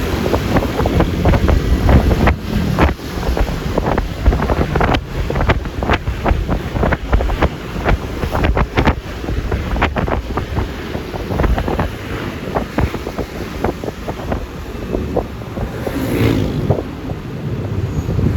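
Wind buffeting the microphone in irregular gusts over the running of a Yamaha Lexi LX 155 scooter and its road noise while riding.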